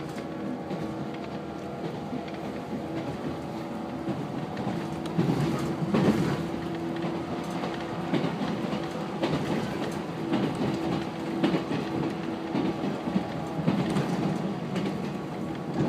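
Running noise inside a JR 115-series electric train at speed: a steady hum with wheels clacking irregularly over rail joints, growing louder and rougher about five seconds in.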